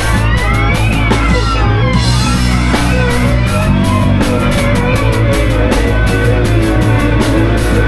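A band jamming loud, improvised rock: drum kit hitting steadily under electric guitar lines that slide and bend up and down in pitch, over a steady low bass.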